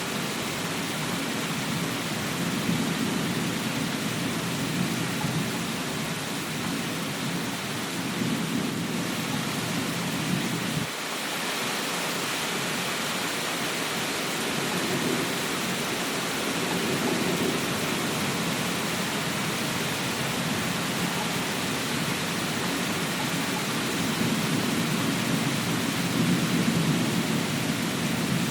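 Steady heavy rain hissing, with low rolling rumbles of distant thunder swelling and fading beneath it; the low rumble cuts off abruptly about a third of the way in, then builds again.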